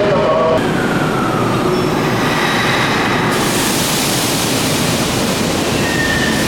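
Electric commuter train moving at the platform: steady loud rumble of wheels on rail, with the traction motors' whine sliding in pitch in the first few seconds. A hiss joins about three seconds in.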